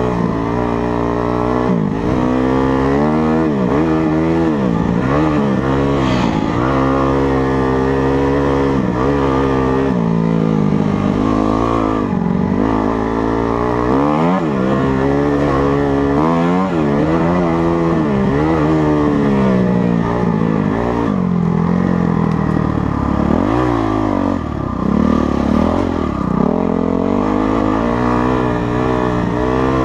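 Motocross dirt bike engine being ridden hard, its pitch climbing and dropping over and over as the rider works the throttle and gears.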